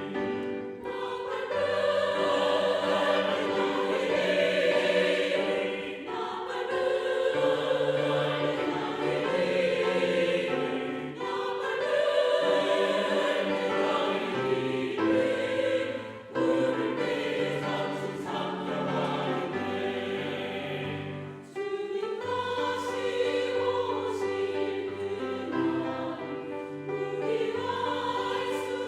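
Church choir singing a hymn in parts, sustained chords sung in phrases of about five seconds with short breaks between them.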